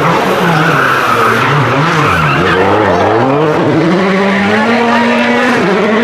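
Rally car engine at high revs, dropping sharply about two seconds in as the car brakes and shifts down, then climbing again through the gears, over a constant hiss of tyres and road noise.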